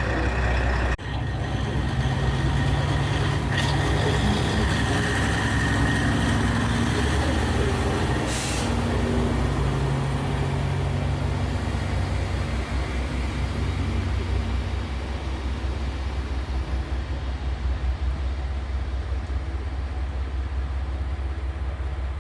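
KiHa 40 diesel railcar's original DMF15HSA diesel engine running under way, with the rattling clatter typical of the unmodified engine, heard from on board. A short hiss of air about eight seconds in.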